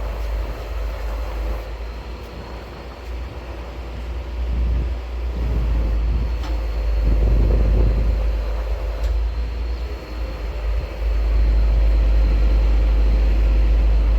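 Hoisting crane's engine running steadily with a low rumble, getting louder about eleven seconds in.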